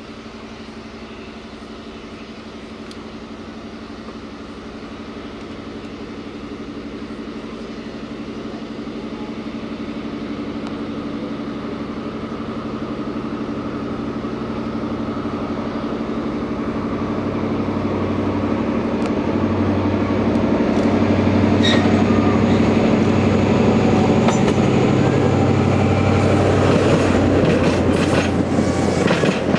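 Train approaching and passing close by, growing steadily louder, with a steady engine hum. Near the end comes the rapid clatter of coaches running over the rail joints.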